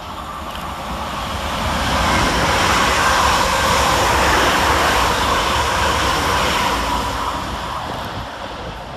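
Two coupled Class 350 Desiro electric multiple units rolling through the station, the train noise swelling to its loudest about three to five seconds in, then fading.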